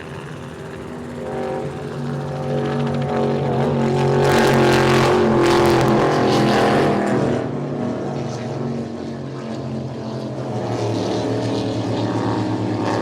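Offshore racing powerboat's engines running at speed, growing louder to a peak with a rushing spray-and-wind noise between about four and seven seconds in, then easing off.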